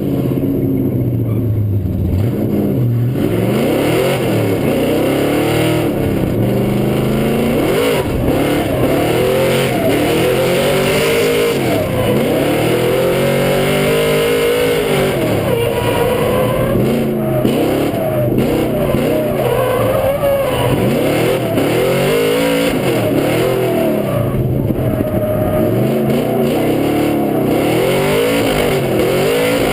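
Pontiac GTO drift car's V8 engine, heard from inside the car, revving hard and repeatedly, its pitch climbing and dropping again and again through the drift. It runs lower and steadier for the first three seconds before the rev swings begin.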